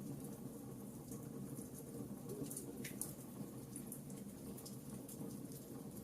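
Campfire burning, with irregular sharp crackles and pops over a low steady rumble of the flames.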